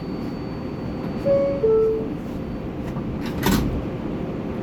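R188 subway car's door-closing chime, two short descending notes, followed about two seconds later by a sharp thump as the sliding doors shut, over the steady hum of the stopped train.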